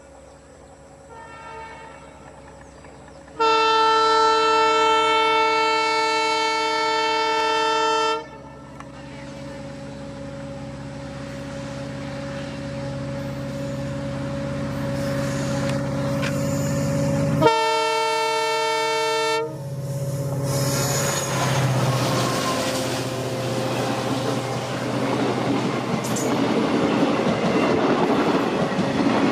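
WDP4D diesel locomotive sounding its multi-note horn as it approaches at speed: a long blast of about five seconds, then a second blast of about two seconds, with the train's rumble rising in between. Near the end the passenger coaches rush close past, wheels clattering rapidly over the track.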